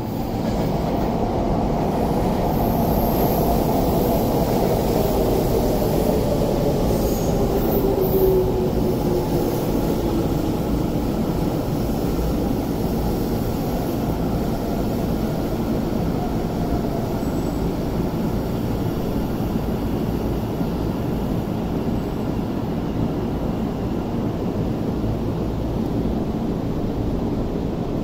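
Electric commuter train running through the station and slowing, with a steady rumble of wheels on rail. Its motor whine falls gradually in pitch over the first ten seconds or so as it brakes.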